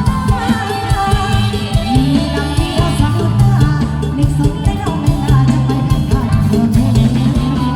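Live band playing retro Thai ramwong dance music: drum kit keeping a steady beat under bass and a singing voice.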